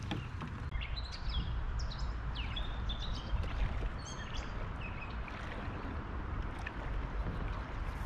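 Birds chirping and whistling in a string of short high calls, several sliding down in pitch, over a steady low rumble.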